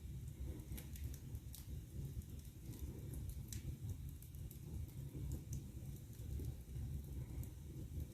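Wood fire burning in a fireplace: a steady low rumble of flame with scattered sharp crackles and pops every second or so.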